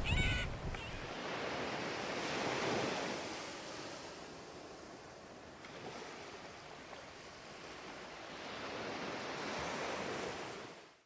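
Ocean surf washing on a beach, swelling twice, about two seconds in and again near the end, before fading out. A short bird call at the very start.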